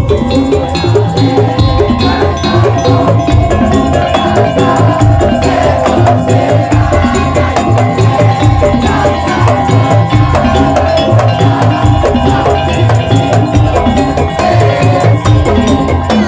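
Madurese tong-tong (daul) ensemble playing: a steady, repeating drum rhythm with wooden percussion under a held melody line.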